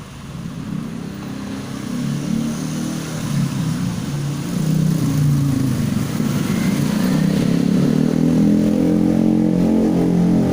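A motorcycle-type engine running. It grows louder over the first few seconds, then holds, with its pitch wavering up and down as it is revved.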